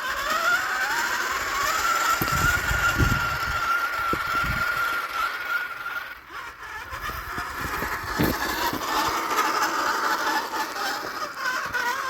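Axial SCX10 II RC crawler's electric motor and gear drive whining as it drives, the pitch rising over the first two seconds and then holding steady. The whine dips away about six seconds in and comes back rougher, with a few low knocks.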